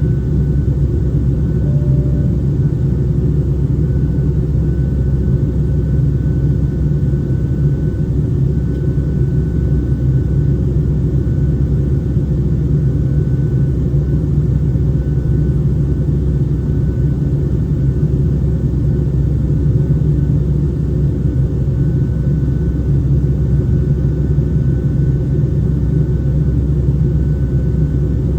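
Boeing 757-200 cabin noise in flight: a steady low rumble of engines and airflow, with a faint steady high whine over it.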